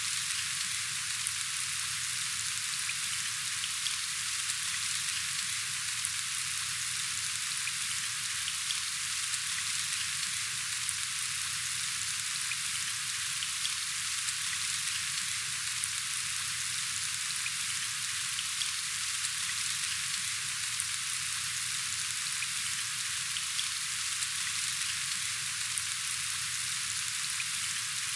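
Steady rain falling: an even, dense hiss with scattered small drop ticks, unchanging throughout.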